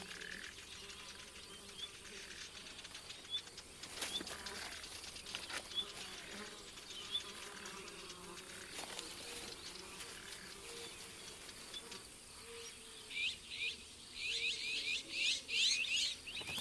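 Night-time forest ambience of insects buzzing and chirping steadily, with a few faint clicks. Near the end comes a run of rapid, high chirps.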